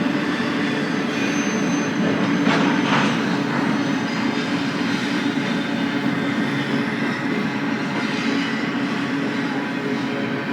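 BNSF freight train cars rolling past in a steady rumble of steel wheels on rail, with a brief louder clatter about two and a half seconds in.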